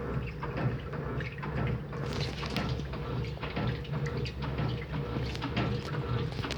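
Electrolux Turbo LT09B top-loading washing machine running: a steady motor hum with water sloshing and splashing in the tub.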